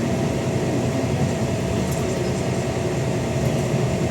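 Scania N94UD Omnidekka double-decker bus's diesel engine running steadily under power, a tired-sounding thrash.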